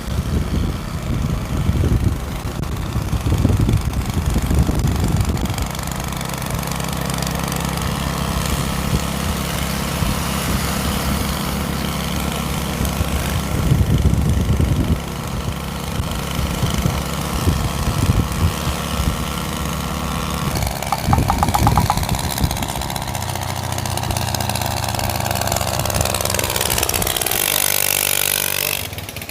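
Small single-cylinder moped engine from an old TVS XL, mounted on a bicycle, running loud with no silencer on its exhaust; its note shifts several times as the engine speed changes.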